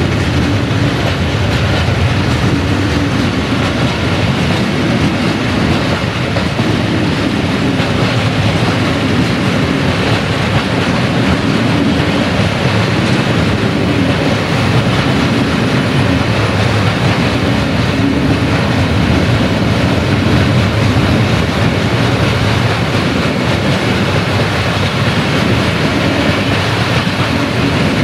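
A freight train's wagons rolling past close by, a steady loud noise of steel wheels running on the rails.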